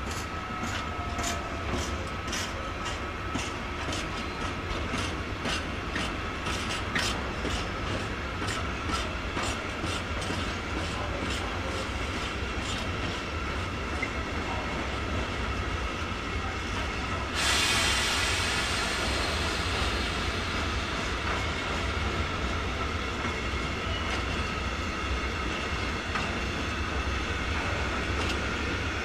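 Freight train of tank wagons rolling past, its wheels clicking over rail joints about twice a second with a faint wheel squeal, while an S-Bahn electric multiple unit runs in. Over halfway through a loud hiss of air starts suddenly and carries on.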